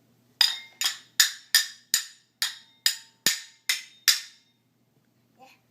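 A small pan and lid banged together by a toddler: about ten sharp clanks at a steady beat of two to three a second, each ringing briefly, ending about four seconds in.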